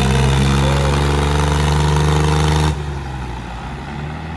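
Diesel tractor engine running hard under a heavy, steady load in a tug-of-war pull. About three seconds in it drops suddenly to a quieter engine sound.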